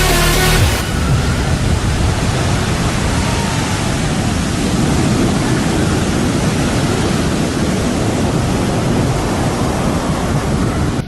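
Music cuts off under a second in, giving way to a steady, loud rushing noise.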